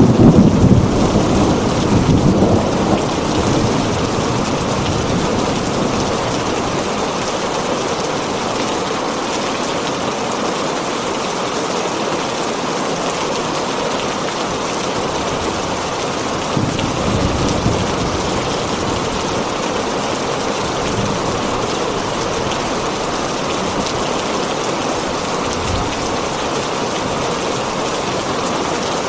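Steady rain on a tin roof, with a thunder rumble at the start that dies away over the first few seconds and a fainter rumble about seventeen seconds in.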